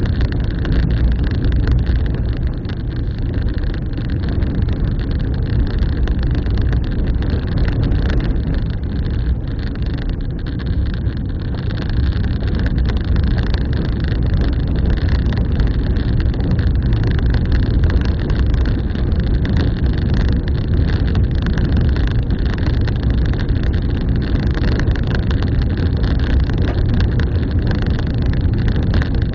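A vehicle on the move: a steady low rumble of engine and road noise, with some wind noise.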